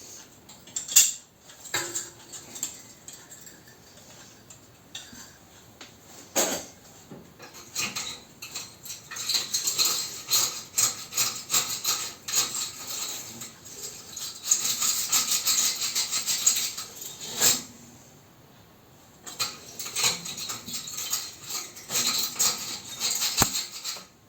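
Wire flue brush being forced into a pellet stove's narrow heat-exchanger tube, rasping and scraping against the metal in bursts, with a few sharp knocks. The brush is too wide for the 35 mm tube and will not go in.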